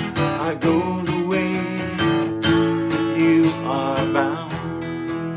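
Acoustic guitar strumming steadily, with a melodic line that slides in pitch twice over the chords.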